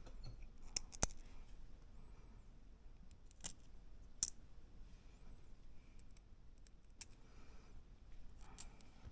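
Scattered sharp clicks and light taps of small screws and plastic parts being picked up and handled, a few seconds apart, with faint rustling between them.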